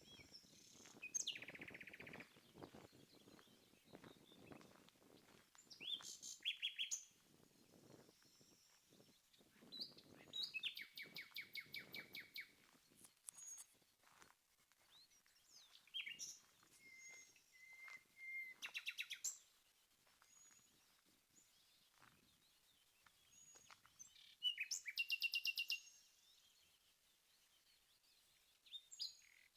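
Common nightingale (Luscinia megarrhynchos) singing: separate phrases a few seconds apart, many built from fast runs of rapidly repeated notes, one a short level whistle, with pauses between phrases.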